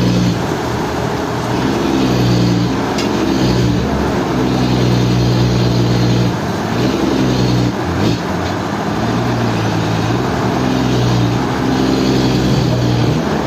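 Heavy sawmill machinery running: a loud motor hum whose pitch shifts in steps every second or two as the load changes, over a steady hiss.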